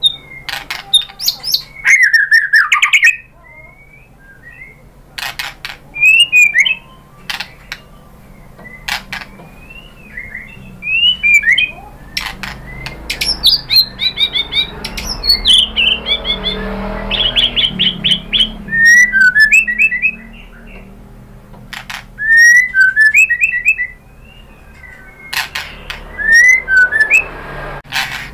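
White-rumped shama (murai batu) singing: loud, varied whistled phrases and quick trills broken up by sharp clicking notes, with short pauses between phrases.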